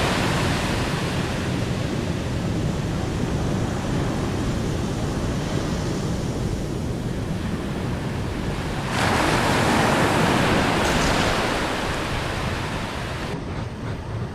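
Rushing water, a steady wash of noise that swells louder about nine seconds in; near the end the sound changes abruptly and turns duller.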